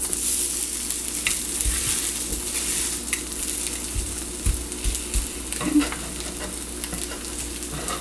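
Breaded milanesa cutlets frying in oil in a pan, with a steady sizzle that is loudest at the start. A few light knocks and clicks come through, like a utensil touching the pan.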